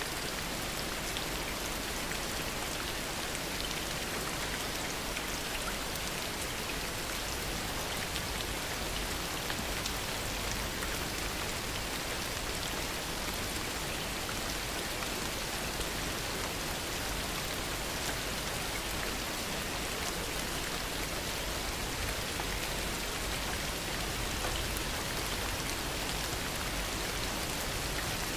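Heavy rain falling steadily, a dense even hiss of drops with many fine individual drop ticks.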